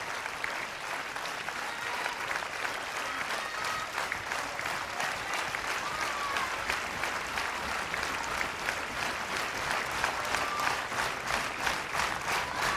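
Audience applauding after a dance performance, the scattered clapping settling into rhythmic clapping in unison, about three claps a second, near the end.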